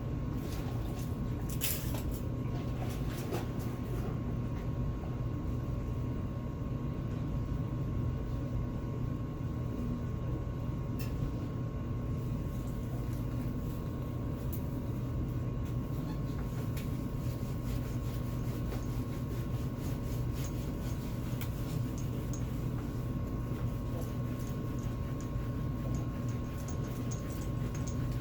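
A steady mechanical hum at an even pitch, with a few faint clicks.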